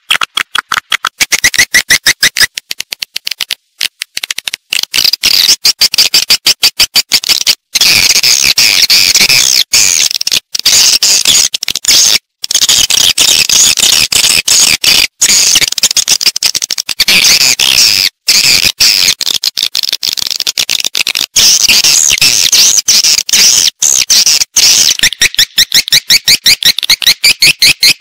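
Recorded calls of edible-nest swiftlets: dense, rapid chattering chirps in quick pulses, many birds layered together, with brief breaks. This is a lure call for drawing swiftlets into a nesting house.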